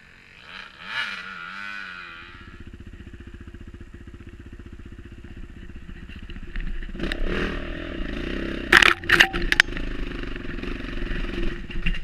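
Dirt bike engine revving up and down, then settling to a steady run; from about six seconds in it grows louder, and several sharp clacks and scrapes come in the middle of the louder stretch.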